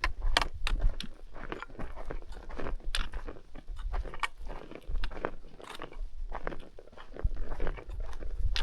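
Footsteps crunching on loose stony ground, an uneven step every half second to a second.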